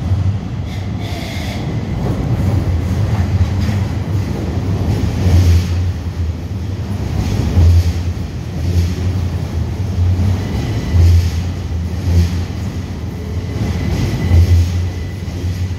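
Southern Class 377 Electrostar electric multiple unit running slowly into the platform: a low rumble that swells in heavy pulses every second or two as the carriages pass. A faint thin high tone comes in after about ten seconds.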